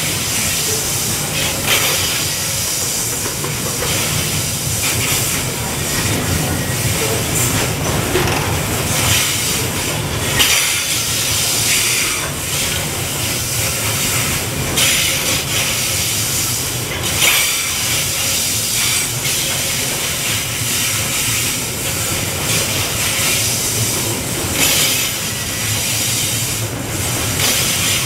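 Coal train's open-top wagons rolling past close by: a steady rolling noise of steel wheels on the rails, with a clack every second or two as wheelsets go over the track.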